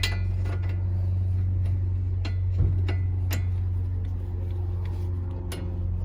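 Scattered metallic clicks and taps from hand tools as the top strut-to-knuckle bolt is worked loose and taken out, over a steady low hum.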